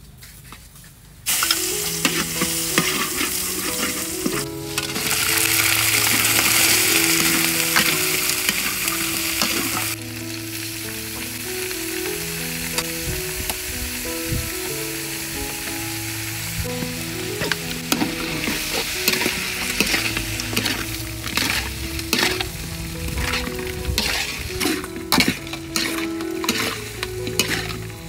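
Prawns and octopus sizzling in a hot wok, with the clicks and scrapes of a metal spatula stirring them. The sizzle starts suddenly about a second in and is loudest for several seconds after, then settles to a lower hiss as the stirring clicks become frequent.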